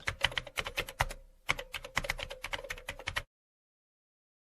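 Rapid typing on a keyboard: quick key clicks, with a short pause about a second in, stopping abruptly about three seconds in.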